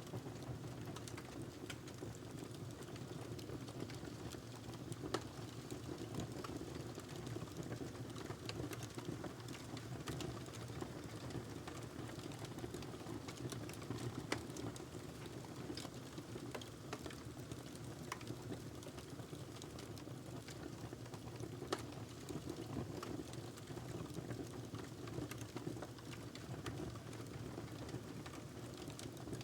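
Log fire burning in a fireplace: irregular crackles and small pops over a steady low rumble, with a few louder pops.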